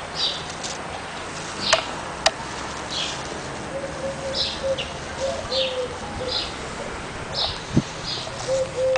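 A bird chirping over and over, short high chirps every half second to a second, over steady background hiss, with two sharp clicks about two seconds in and a lower wavering note coming and going from about four seconds in.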